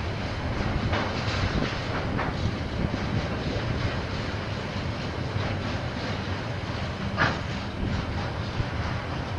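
A KiwiRail train rolling past with a steady rumble and scattered wheel clicks over the rails. A brief sharper, louder noise comes about seven seconds in.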